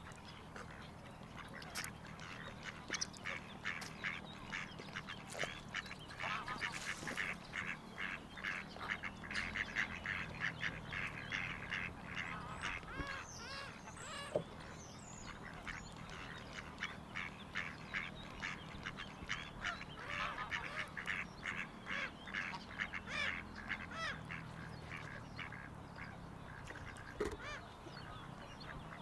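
A flock of waterfowl calling, a dense, unbroken run of short calls at several per second, over a faint steady low hum.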